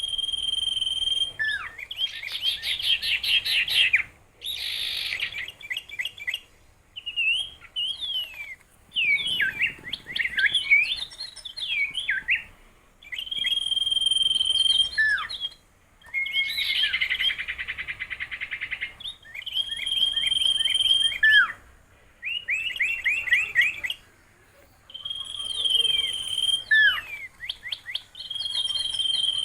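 A songbird singing a varied song in repeated phrases of a second or two. Each phrase mixes held high whistles, fast trills and short downward-sweeping notes, with brief pauses between phrases.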